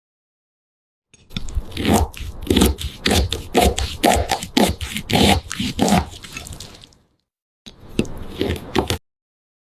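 A knife cutting through crisp fruit in a run of crunchy strokes, about two a second, starting about a second in; after a short pause comes a briefer burst of the same.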